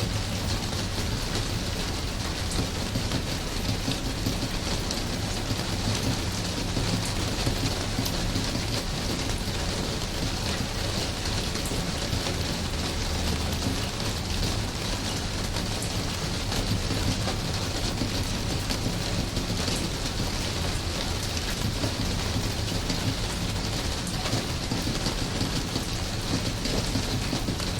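Steady rain falling and pattering on a surface, an even wash of noise with a constant low rumble underneath.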